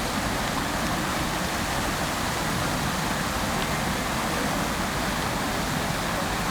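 Fountain water splashing and falling steadily into its basin: an even, continuous rush with no breaks.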